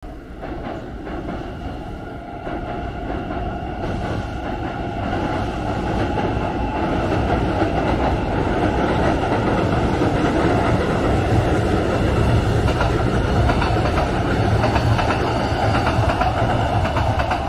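A train running on the rails, growing louder over the first several seconds and then running steadily, with a few steady high tones above the rumble.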